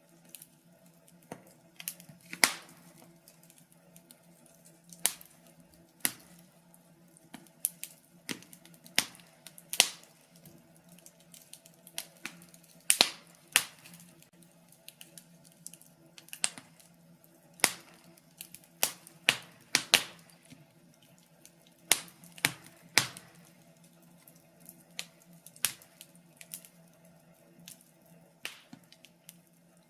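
Fire crackling in a fireplace: irregular sharp pops and snaps, a few of them much louder than the rest, over a faint steady low hum.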